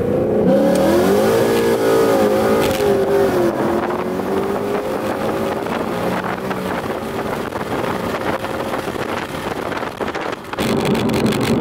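Ford Mustang GT's Coyote 5.0 V8, with long-tube headers and aftermarket exhaust, at full throttle in a hard pull. The engine note climbs and wavers in the first few seconds, then pulls on steadily, with a short break in the sound near the end.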